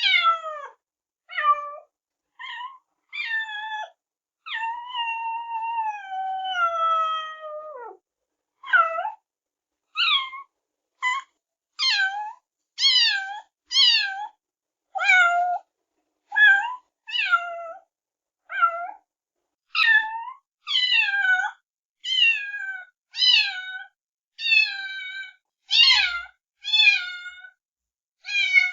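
Kittens meowing over and over: short, high calls about one a second, each falling in pitch, with one long drawn-out meow sliding down in pitch about five seconds in.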